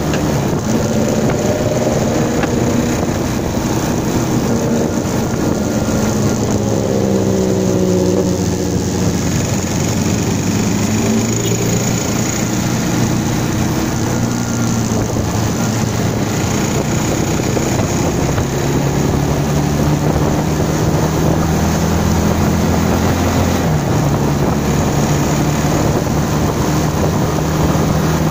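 Bajaj Pulsar 220 motorcycle's single-cylinder engine running on the move, its pitch rising and falling with the throttle and gear changes and climbing as the bike speeds up, over rushing wind noise on the microphone.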